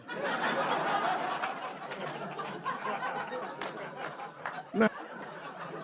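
Theatre audience laughing together after a punchline, a dense, steady wash of crowd laughter.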